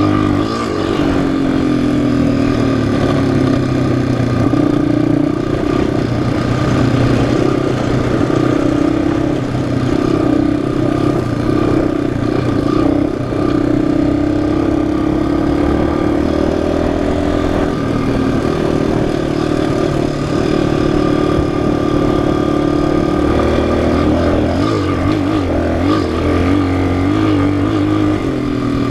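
Single-cylinder four-stroke off-road engine being ridden under changing throttle, its pitch rising and falling with the revs.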